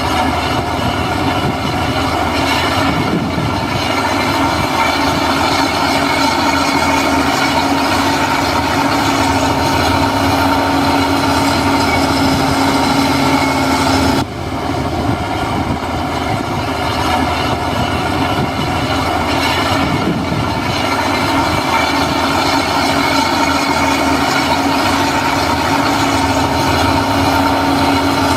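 Heavy earthmoving machinery, a bulldozer or dump truck, with its diesel engine running steadily while working, a steady engine drone throughout. The level drops sharply for a moment about halfway through, then carries on.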